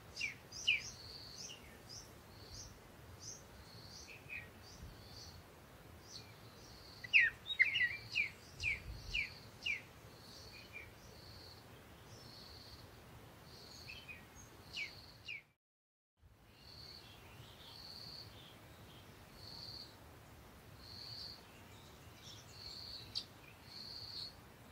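Birds chirping: short high notes repeat about once a second, with a run of louder, quick downward chirps about seven to ten seconds in. The sound drops out briefly about halfway through.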